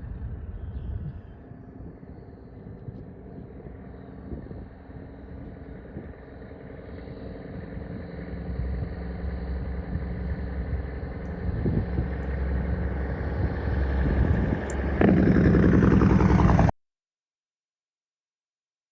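Heavy truck's diesel engine running, getting steadily louder as it nears, and loudest over the last two seconds before the sound cuts off abruptly into silence.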